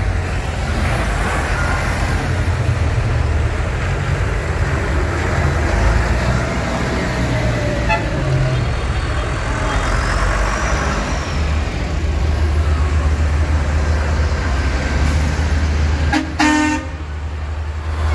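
Tractor engines running steadily as tractors move off, with one short horn toot near the end.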